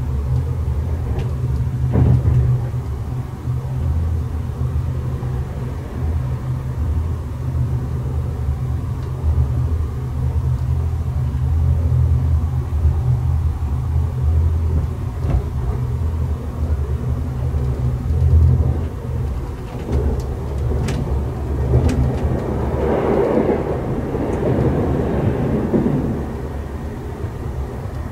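S-Bahn commuter train running, heard from inside the passenger coach: a steady low rumble with a few sharp clicks, and a louder rushing swell about three quarters of the way through.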